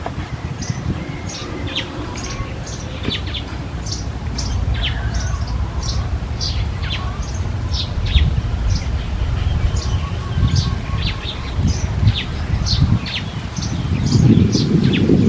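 Small birds chirping: many short, downward-sliding chirps, several a second, from more than one bird. A low rumbling noise runs underneath and gets louder near the end.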